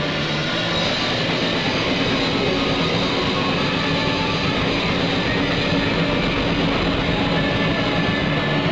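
Live harsh noise music: a loud, steady, dense wall of noise with a few faint held tones running through it, played in a tunnel.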